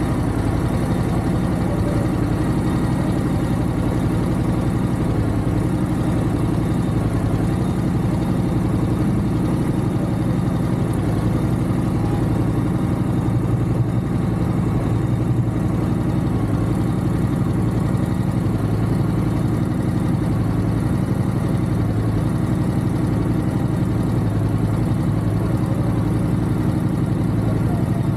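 Motorcycle engine running at a steady, unchanging pitch during a ride.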